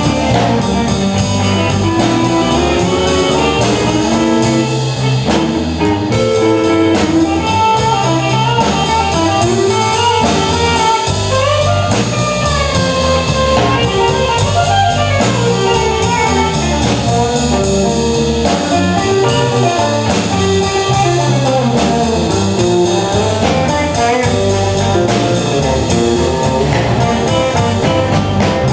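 Live band playing an instrumental passage: guitar over a drum kit keeping a steady beat.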